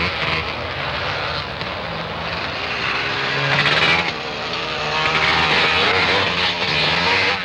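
Motorcycle engines running, several at once, their pitch rising and falling as the throttles open and close.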